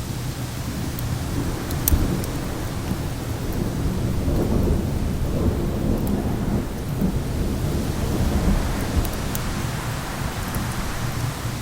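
Thunder rolling low over a steady rush of wind and rain, swelling through the middle and easing off again. Over it come a few sharp crackles from a wood fire, the loudest about two seconds in.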